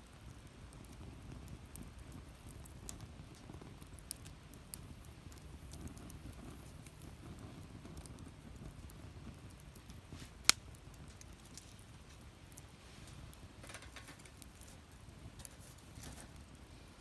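Wood fire burning in a fire pit, with sparse small crackles over a low steady rumble and one sharp pop about ten seconds in.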